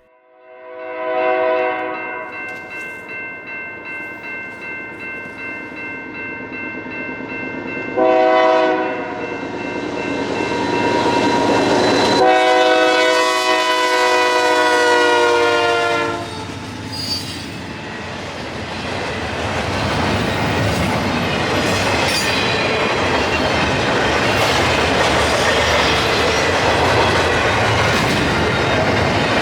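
Diesel locomotive air horn, the lead GE AC44CWM of an intermodal freight, sounding three long blasts as it approaches; the last blast drops in pitch as the locomotive passes. Then the train's cars run by with a steady rumble and wheel clatter.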